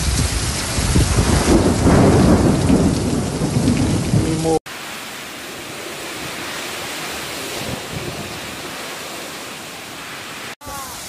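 Heavy rain and strong gusting wind, the gusts buffeting the microphone with a low rumble. About four and a half seconds in the sound cuts to a steadier, quieter hiss of rain.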